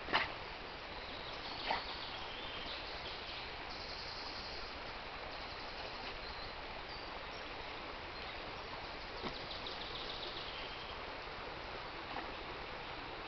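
Steady outdoor background noise by water, with faint high chirping from birds and two short sharp sounds in the first two seconds.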